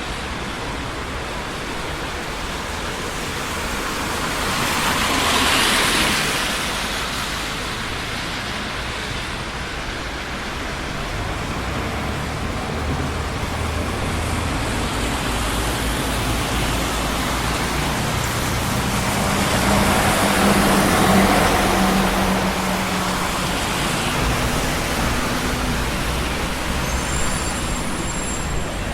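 Steady road traffic on a busy city street, with two vehicles passing close by, one about six seconds in and a louder one with a low engine hum about twenty seconds in. A faint high whine comes near the end.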